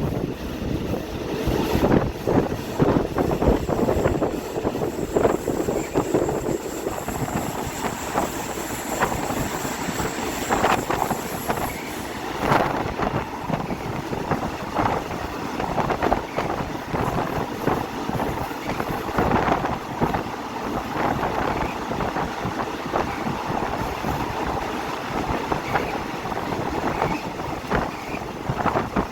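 Passenger train running, heard from on board: a steady rushing noise with many irregular knocks and rattles from the wheels and carriage.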